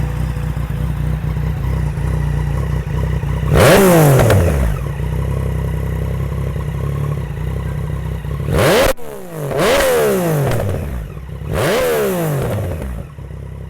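2020 Yamaha XSR900's inline three-cylinder engine, through a Two Brothers S1R stainless full-system exhaust, idling and then blipped four times. Each rev rises sharply and falls back to idle, with the exhaust much louder than stock.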